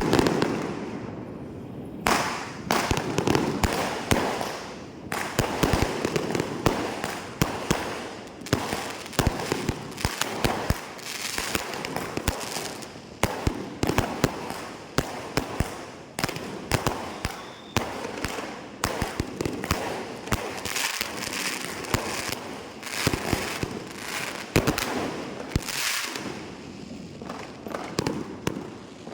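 Fireworks going off in a dense, unbroken barrage of sharp bangs and crackles.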